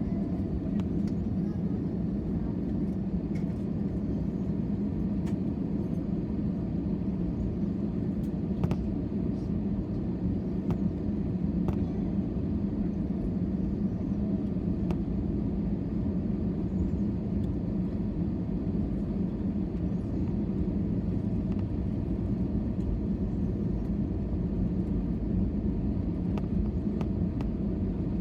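Steady low drone of a jet airliner's engines and airflow heard inside the passenger cabin, with a few faint clicks and rattles.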